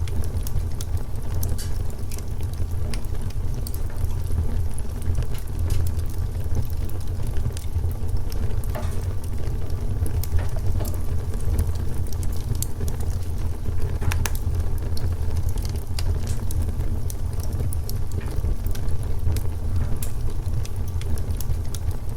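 Wood fire crackling: frequent small sharp pops and snaps over a steady low rumble, with slightly louder pops about nine and fourteen seconds in.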